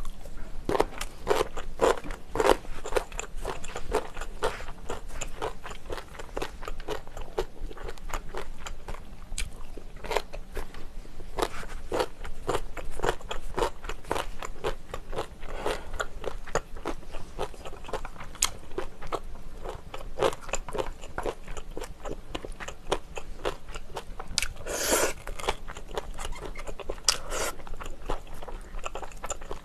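Close-miked crunching and chewing of cubed radish kimchi (kkakdugi), a run of crisp crunches as the firm radish breaks up in the mouth.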